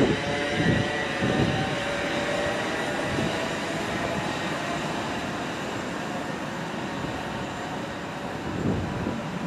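A passing train's rumble and wheel noise on the track, fading slowly as it draws away.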